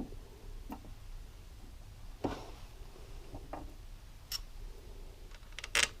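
Scattered light metallic clicks and taps of small bolts and hand tools being handled during engine assembly, about half a dozen in all, with a short ringing click about four seconds in and a louder pair of clicks near the end.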